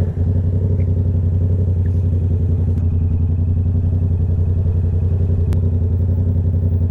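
Motorcycle engine idling steadily and loudly close by, an even, unchanging beat with no revving.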